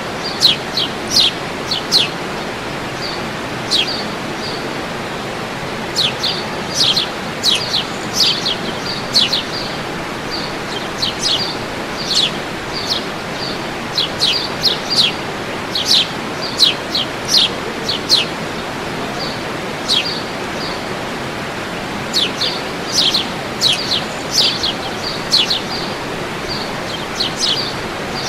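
Birds singing: many short, sharp, high chirps in quick runs of three to five, repeating with short pauses throughout. Under them is a steady rushing noise.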